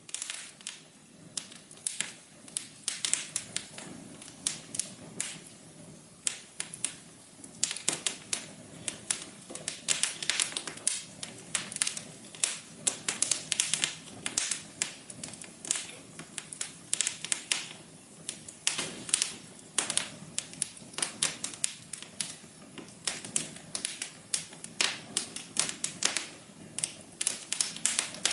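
Wood fire in a fireplace crackling: a steady stream of irregular sharp pops and snaps, several a second, over a soft continuous hiss of burning.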